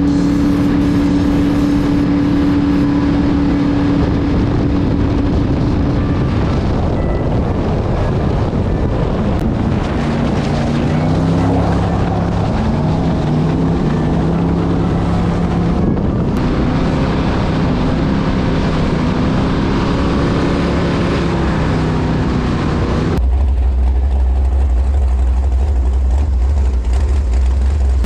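V8 jet boat engine running, first at a steady note, then revving up in pitch several times through the middle. About 23 seconds in the sound changes abruptly to a loud, low, steady engine drone.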